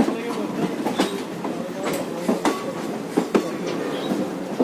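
Express passenger train running on the rails, its wheels clacking over rail joints in sharp irregular knocks over a steady rumble.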